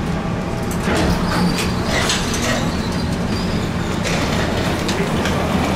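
Airport people-mover train running: a steady motor hum with rumble and light rattles from the car.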